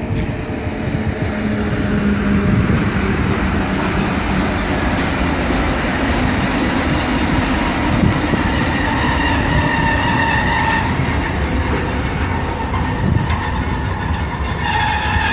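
Double-headed electric freight train with SBB Cargo locomotives running past at close range, its loaded container and tank wagons rumbling over the rails. From about six seconds in, the wheels squeal in high, steady tones.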